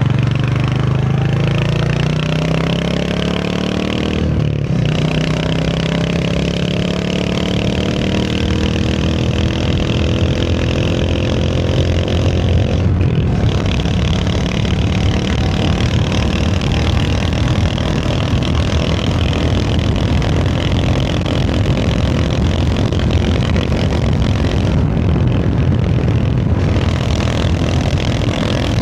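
Royal Enfield Hunter 350's 349 cc single-cylinder engine pulling through the gears under way, its pitch rising with a gear change about four and a half seconds in and another around thirteen seconds. After that it settles into a steady cruise, with wind and road noise running under the engine.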